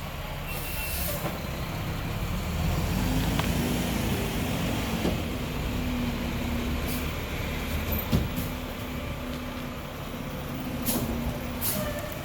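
Mack LR garbage truck's diesel engine running steadily with a low hum, with a few short air hisses and a single click about two-thirds of the way through.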